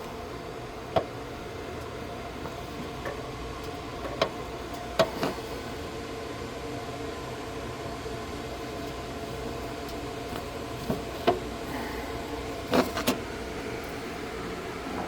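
Sharp metallic clicks and clinks of a socket and extension being worked on a water heater's anode rod fitting, about eight of them, some in quick pairs, over a steady hum.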